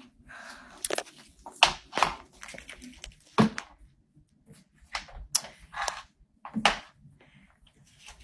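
A string of irregular sharp knocks and clicks, about a dozen, unevenly spaced, the loudest a little under two seconds in and near seven seconds.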